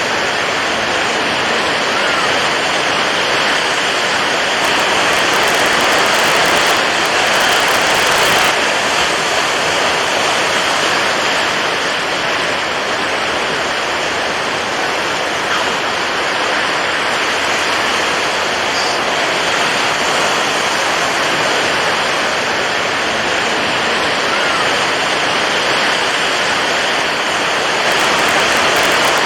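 Water waves washing in a steady, even rush, with gentle swells in loudness now and then.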